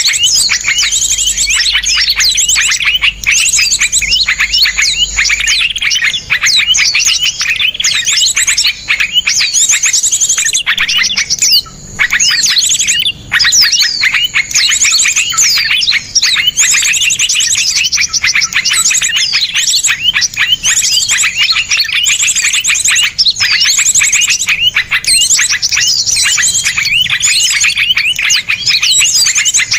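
Small songbirds singing dense, rapid, harsh chirps and trills, packed one after another with barely a pause: a 'masteran' birdsong recording of the kind played to caged songbirds to teach them new phrases.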